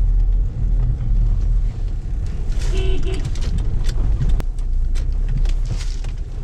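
Car engine and tyre noise heard from inside the cabin as the car drives slowly, a steady low rumble with a few short clicks and rattles.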